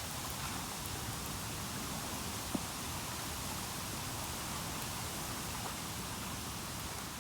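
Bamboo burning in an open fire, crackling steadily, with one sharp pop about two and a half seconds in.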